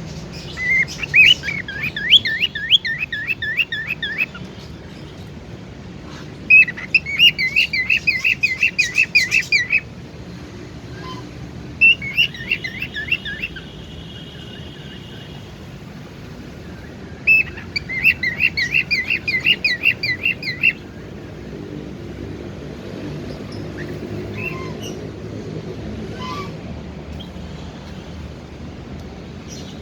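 Cockatiel chirping in four quick bouts of rapidly repeated high notes, each a few seconds long, with a short steady whistle after the third; the second half holds only a faint low hum.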